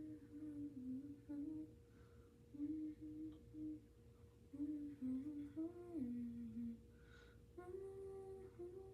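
A woman humming a song's tune to herself in short melodic phrases with brief pauses between them.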